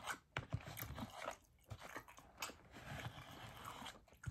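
Faint chewing and mouth sounds of a person eating a roast turkey dinner, with scattered light clicks of a utensil against the meal tray at irregular times.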